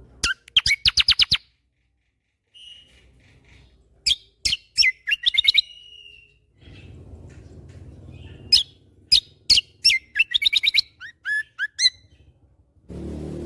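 Kecial kombo (cucak kombo) songbird singing in rapid bursts: quick runs of sharp, high repeated notes and short down-slurred notes, broken by brief pauses.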